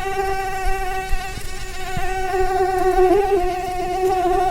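Mosquito in flight, a steady whine from its beating wings with a slight waver about three seconds in.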